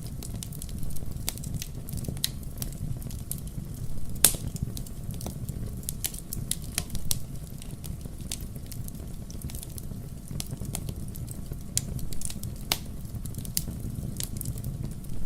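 Burning firewood crackling: irregular sharp pops and snaps over a steady low rumble of the fire, with the loudest pop about four seconds in.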